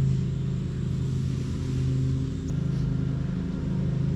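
A steady low motor hum drones on continuously, rising and falling slightly in strength.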